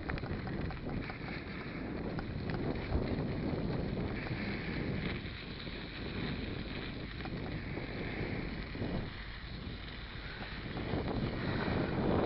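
Wind buffeting the camera microphone while riding a Stels mountain bike, over a steady rumble of tyres on a dirt track and small rattles from the bike.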